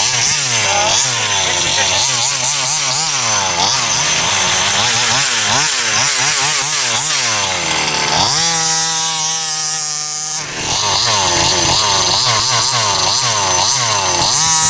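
Rovan 30.5cc two-stroke petrol engine of a 1/5-scale RC buggy, revving up and down repeatedly under throttle. About eight seconds in it holds one steady high pitch for a couple of seconds, then the rapid revving resumes.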